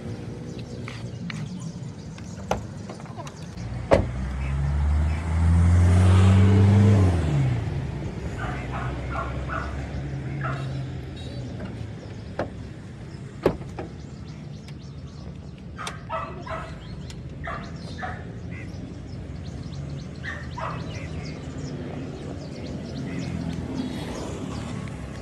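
Car engine running, revved up once as the accelerator pedal is pumped, then dropping back to a steady idle. A few sharp clicks are heard along the way.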